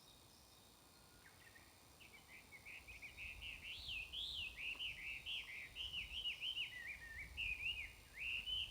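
A songbird singing a long, quick warbling song of rising and falling notes, starting about two seconds in, over a faint steady hiss from the phone's microphone.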